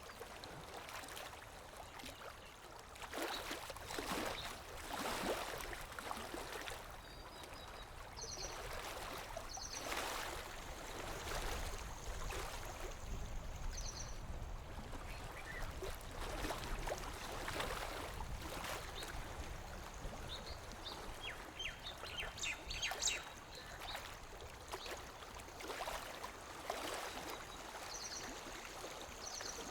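Lake water lapping at the shore in small, irregular splashes. A bird gives short high double chirps a few times, with a run of quick clicks and ticks a little past the middle.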